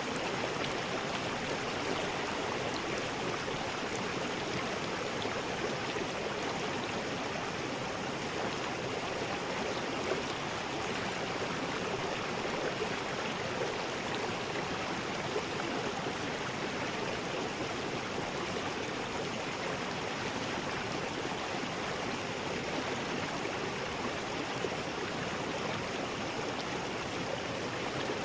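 River rapids: water rushing and splashing over rocks in a steady, unbroken rush.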